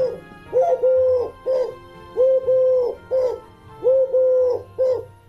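A bird cooing over and over in a repeating pattern of short calls followed by a longer, steady one, all at much the same low pitch.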